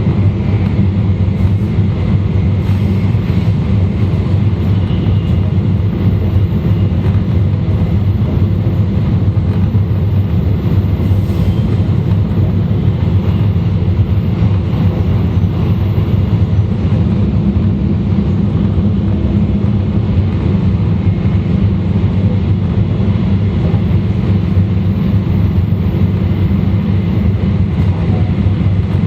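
E2 series Shinkansen (Mitsubishi IGBT inverter set) running steadily, heard from inside a car's deck. It is a continuous, even running rumble of wheels and traction, with no change in speed.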